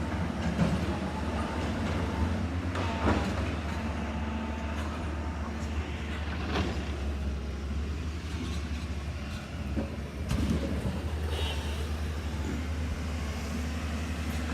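Diesel engine of a JCB NXT 205 LC tracked excavator running steadily while it loads rock, with a few sharp knocks.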